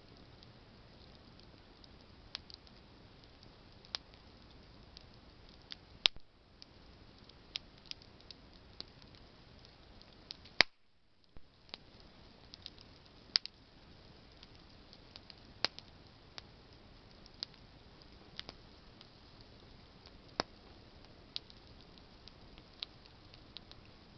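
Campfire of burning branches crackling: a steady low hiss of flame with irregular sharp snaps and pops, two of them much louder, about six seconds in and about halfway through.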